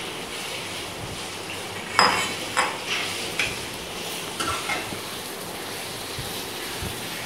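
Chicken pieces frying and sizzling in oil in a metal kadai with onions and green chillies. A metal spoon stirs them, clinking against the pan several times from about two seconds in; the first clink is the loudest.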